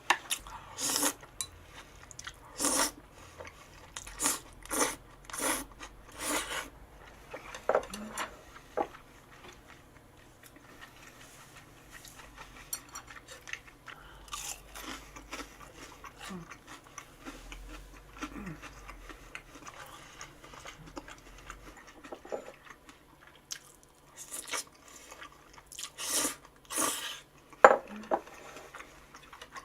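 Bites and chewing of crunchy food: a run of sharp crunches in the first seven seconds and another run near the end, with quieter chewing between.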